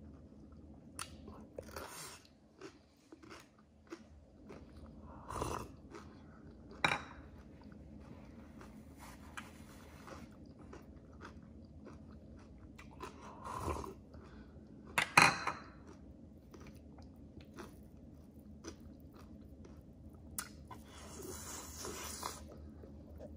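Close-miked eating: a person chewing and biting into food, with wet mouth clicks and scattered crunches, a few of them louder, around five, seven, fourteen and fifteen seconds in.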